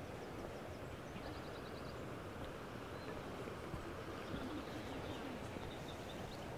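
Small birds singing in open countryside: a quick run of short, high chirps about a second in, then scattered faint chirps later, over a steady low outdoor background noise.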